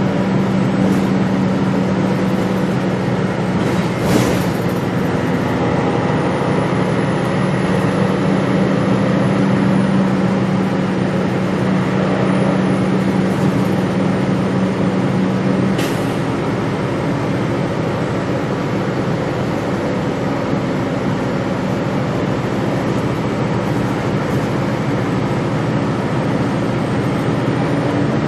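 Gillig Low Floor transit bus under way, heard from inside the cabin: steady engine and road noise. A steady low hum stops a little over halfway through, and a sharp click is heard twice.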